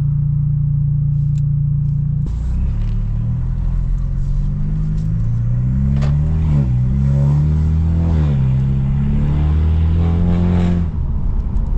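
Stage 2 tuned BMW F30 328i's turbocharged four-cylinder engine idling, then pulling away about two seconds in: the engine note climbs, drops at each of two gear shifts, holds steady and eases off near the end.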